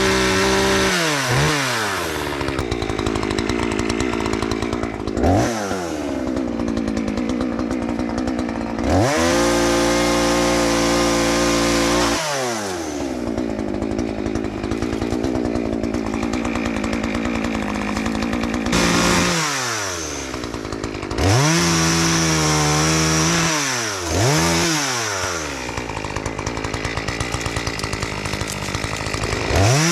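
Chainsaw revved over and over: the engine climbs to full speed and holds there for a few seconds at a time while cutting a fallen tree into pieces, then drops back down between cuts.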